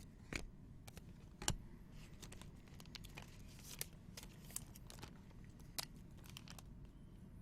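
Faint handling of trading cards and pack wrappers: scattered sharp clicks and snaps of cards being handled, with a brief crinkling tear a little past three seconds in.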